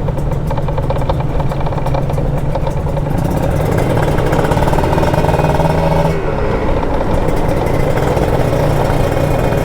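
Kawasaki Ninja RR 150 two-stroke motorcycle engine running while riding, heard from on the bike. About six seconds in its note drops and thins.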